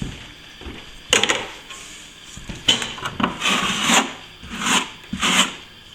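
Filling knife scraping filler into a crack in plaster, in a series of short strokes starting about a second in.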